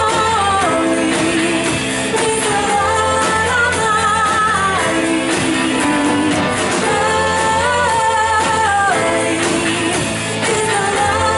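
Live church worship music: a band accompanies singers through a hymn, with long held sung notes over a steady bass.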